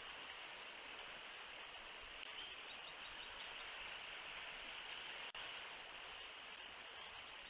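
Steady outdoor hiss on a nest-cam microphone, with a brief run of about five faint high chirps from a bird about two and a half seconds in.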